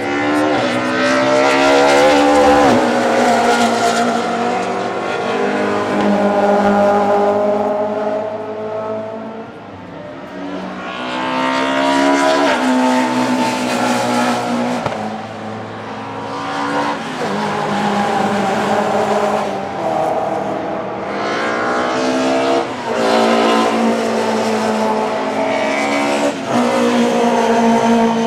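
Historic DTM touring cars racing past in succession, engines revving hard. The pitch drops as they brake and downshift and climbs again as they accelerate through the gears.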